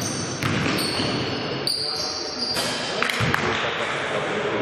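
Basketball in play on an indoor court: the ball bouncing with sharp knocks, short high sneaker squeaks on the floor, and players' voices, with hall echo.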